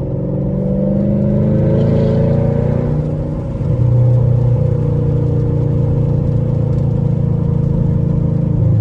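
Straight-piped Chevrolet Camaro SS 6.2-litre V8 exhaust under way, rising in pitch over the first couple of seconds as it accelerates, then holding steady at cruise.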